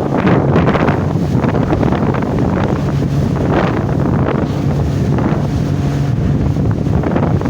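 Wind buffeting the microphone, with sea water rushing and splashing in repeated surges over a steady low drone.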